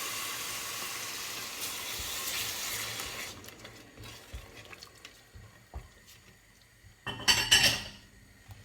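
Onion and chilli curry base sizzling in a hot pan as a tin of blended tomatoes is poured in; the sizzle dies away about three seconds in. A few light knocks of a utensil on the pan follow, with a louder scraping clatter of about a second near the end.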